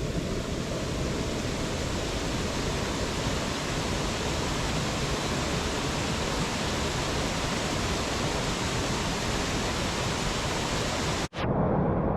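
Steady, even rush of a waterfall. About eleven seconds in it cuts off abruptly and a lower, duller rumble takes over.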